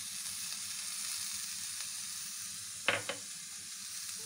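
Semolina halwa mixture frying in ghee and being stirred in a nonstick wok: a steady sizzling hiss, with a sharp double clack, the loudest sound, about three seconds in.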